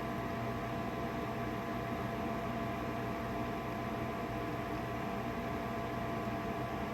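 Trane gas furnace's draft inducer fan running during the ignition sequence, a steady hum with a few constant tones over a hiss, before the burner lights.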